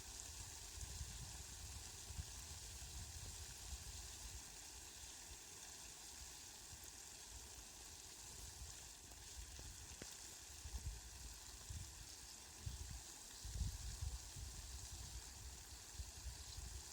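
Steady hiss of rain with faint patter, and a low rumble swelling now and then, most of all in the last few seconds.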